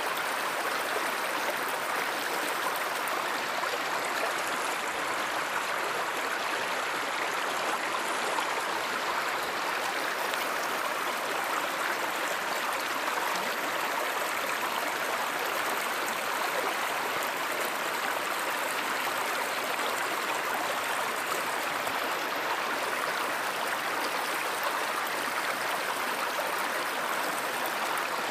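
Running water of a stream or river, a steady, even rush with no break.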